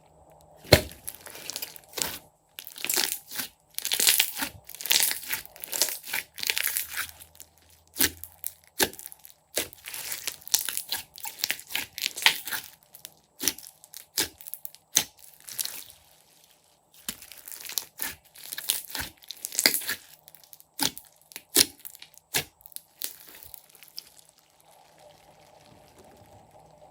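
Clear slime with mixed-in add-ins being squeezed, pressed and poked by hand, giving irregular crackling, sharp clicks and pops with short pauses. It quietens near the end.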